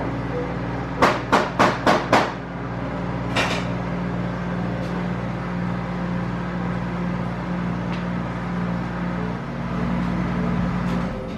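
A steady low hum, with five quick sharp knocks a little over a second in and one softer knock about a second later.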